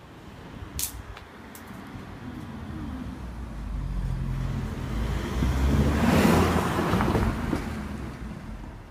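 A motor vehicle driving past: engine and road noise build up over several seconds, peak a little after the middle and fade away. A short sharp click comes about a second in.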